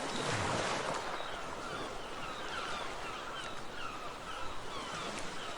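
Gulls calling in a quick series of short falling cries, about three a second, over a steady rushing background, with a swell of rushing noise in the first second.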